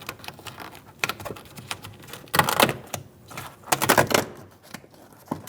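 Plastic door vapor barrier being peeled back from the inner door panel, crinkling and crackling in irregular bursts, loudest about two and a half and four seconds in.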